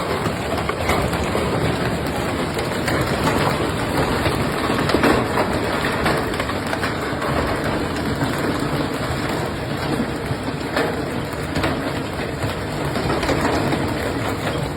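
Heavy hail and rain pounding down in a steady, dense wash of noise, with occasional individual hailstone strikes standing out.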